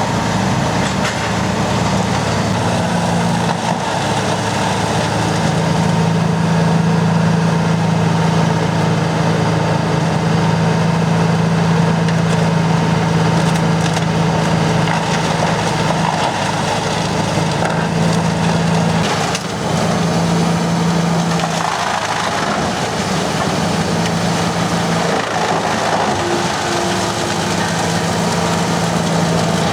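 Wood chipper running under load, its engine holding a steady hum while wood is fed through and shredded with continuous splintering and crunching. The engine tone briefly dips and breaks about two-thirds of the way through.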